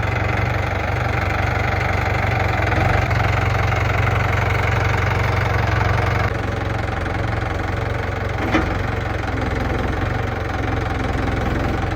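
Engine of a lifting machine with a boom running steadily at raised throttle, dropping back a little about six seconds in. A single sharp click about two and a half seconds later.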